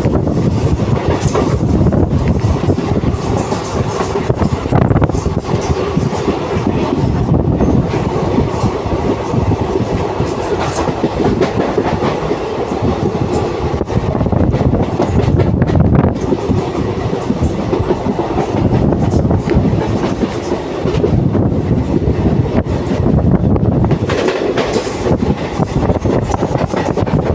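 Passenger train running along the track: a steady rumble with the clickety-clack of wheels over rail joints.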